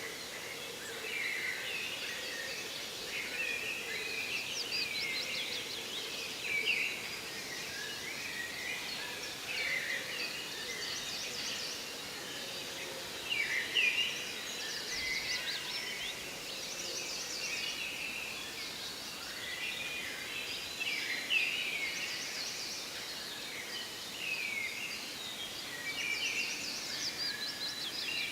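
Forest bird chorus: several songbirds overlapping with quick high trills and short chirps every second or two, over a steady background hiss.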